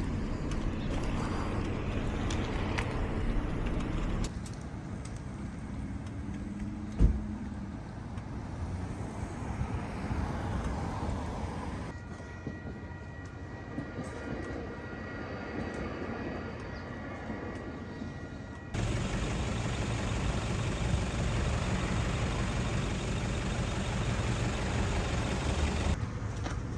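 Triumph T120 motorcycle being ridden: the 1200cc parallel-twin engine running with wind and road noise. The level drops abruptly for a middle stretch and comes back up, with a single sharp thump about seven seconds in.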